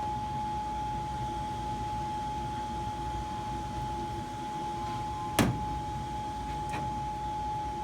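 Steady, high-pitched whistle of air squeezing past a duct zone damper that is not opening all the way, over a low rush of moving air. A sharp click sounds about five and a half seconds in, and a fainter one a little later.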